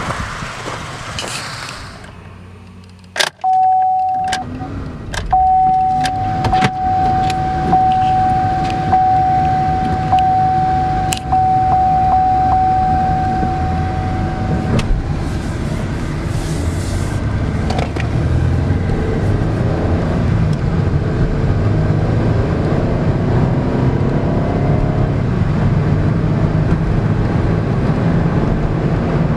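Inside the cabin of a 2012 Chevrolet Traverse: a few clicks and a steady warning chime tone lasting about ten seconds, then the SUV's 3.6-litre V6 running and pulling under acceleration, its pitch rising through the second half.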